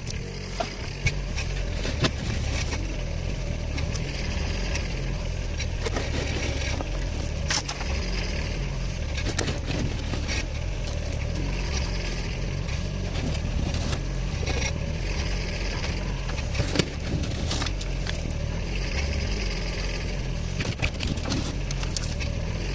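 Engine running steadily under load, a low rumble with scattered sharp knocks and rattles.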